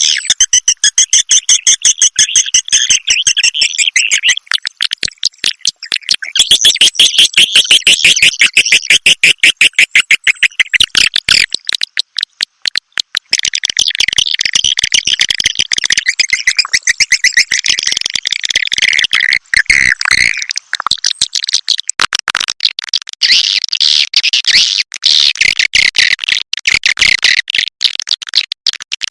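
Swiftlet lure call recording: edible-nest swiftlets twittering in a dense, high-pitched stream of rapid chirps and clicks, breaking off briefly twice. It is the kind of call sound played to attract swiftlets into a nesting house.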